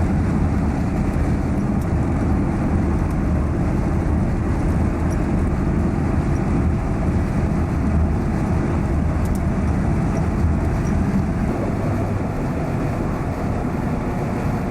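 Steady low road and engine noise of a car in motion, heard from inside the cabin.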